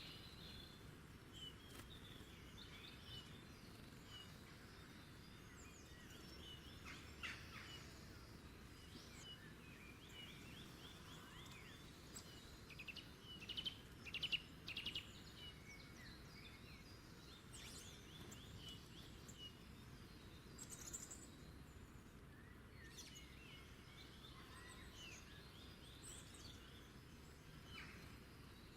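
Several small songbirds chirping and trilling faintly over a low, steady background hiss, with a louder run of rapid calls about halfway through.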